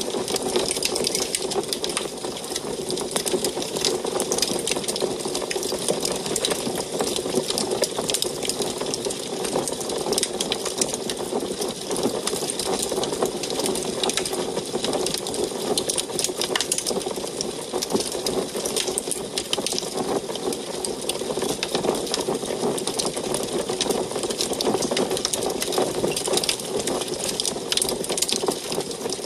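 Wood fire burning in an antique wood stove, crackling with dense, rapid pops and ticks over a steady rush of flame.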